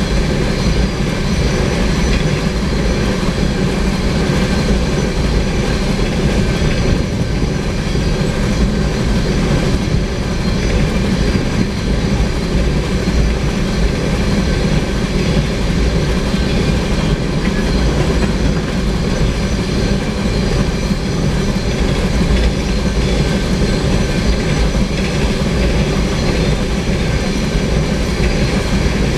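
Empty steel ore cars of a long freight train rolling past: a steady, loud rumble and clatter of wheels over the rails that does not change.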